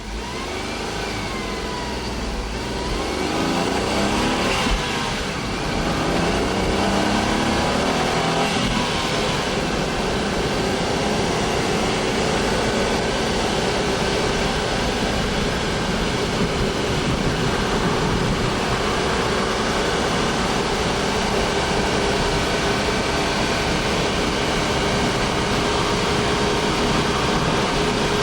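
Honda S660's turbocharged three-cylinder engine pulling away: its note rises in a few climbs over the first several seconds, then settles into a steady cruising drone.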